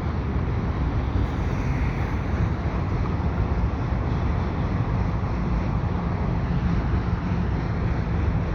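A long CN mixed freight train's cars rolling steadily over a steel truss bridge: a constant rumble with no breaks. Wind buffets the microphone over it.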